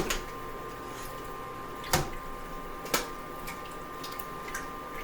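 A long spoon stirring liquid in a soup pot, clinking sharply against the pot a few times, about a second apart, over a faint steady hum.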